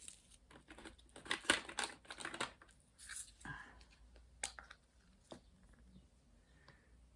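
Plastic crinkling and light clicking from diamond painting supplies being handled, densest over the first three and a half seconds, then a few scattered clicks.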